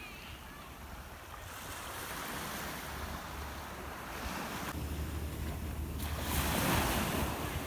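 Sea waves washing onto the beach, swelling and falling back, with the loudest surge about six seconds in, over a steady low rumble of wind on the microphone.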